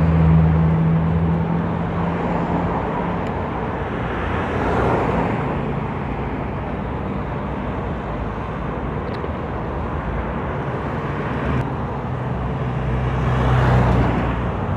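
Electric scooter motor humming loudly with a steady low tone while riding, over a rush of wind and road noise. The hum is strongest in the first few seconds and again near the end, and the rush swells twice, about five seconds in and near the end.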